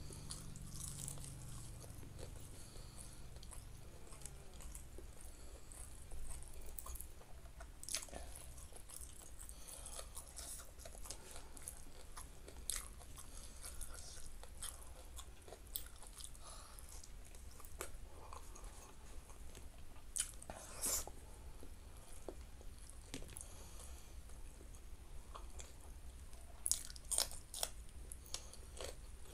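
A person chewing food, with scattered small mouth clicks. Near the end come several crisp crunches as raw green beans are bitten.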